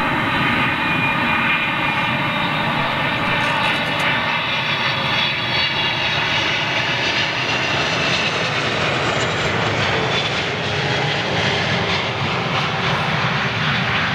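Jet airliner passing low overhead on landing approach. Its engines whine in several stacked tones that slowly fall in pitch, then give way to a steady broad rushing noise.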